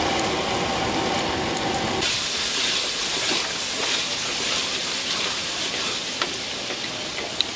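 Red spice paste sizzling in hot oil in a large metal kadai, a dense steady hiss that takes over suddenly about two seconds in after a low steady hum, with a few light clicks of a metal spatula against the pan.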